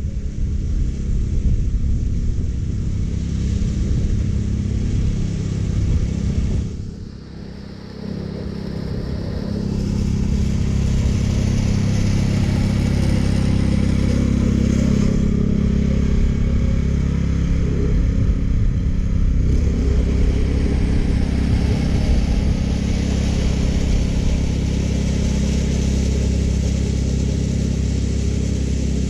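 California Trimmer gas-powered reel mower running steadily while cutting grass. It goes quieter briefly about seven seconds in, then comes back up.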